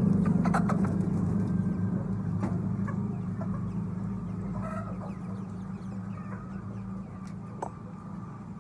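Chickens clucking, with scattered short calls, over a low engine hum that fades steadily away.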